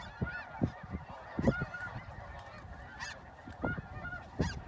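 Geese honking, many short overlapping calls from a flock, with a few brief low thumps mixed in.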